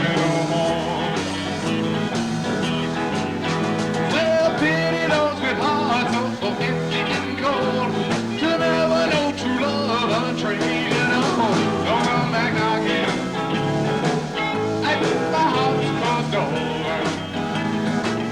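Live rock band playing a song with guitars, bass guitar and drums.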